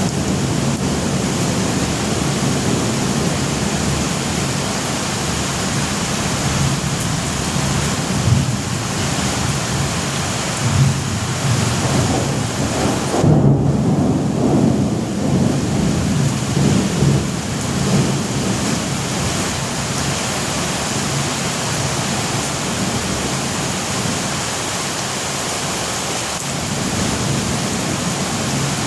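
Steady heavy rain with thunder rumbling low underneath; the rumble swells partway through and is loudest near the middle, then eases off.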